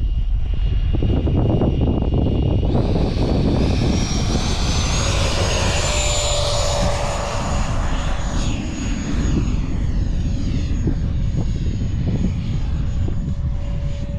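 Twin electric ducted fans of a Freewing Eurofighter Typhoon model jet spooling up, with a whine rising in pitch from about three seconds in, then holding a steady high whine at power. Heavy wind buffets the microphone throughout.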